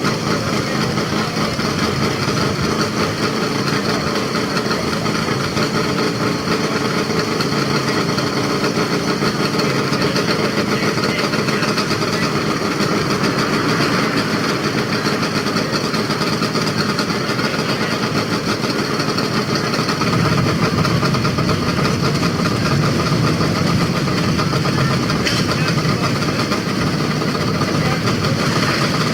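Vintage motorcycle engines running steadily at idle, getting a little louder about two-thirds of the way through.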